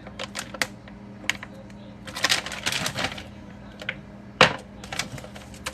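Handling noises: irregular clicks and taps, a rustle about two seconds in, and a sharp knock a little past four seconds.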